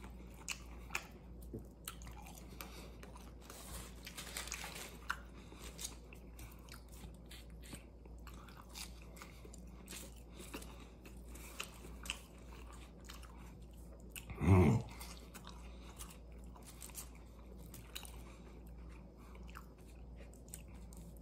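A man chewing and biting potato wedges close to the microphone, with many small irregular crunches. About two-thirds of the way through comes one short throaty vocal sound, the loudest moment.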